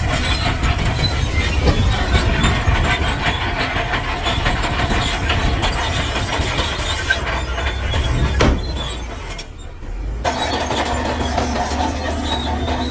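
Heavy earthmoving machinery working: a diesel engine running under a dense rattle of metal clanks and squeals, with a sharp knock about eight and a half seconds in. The sound dips for about a second, then carries on with a steadier engine hum.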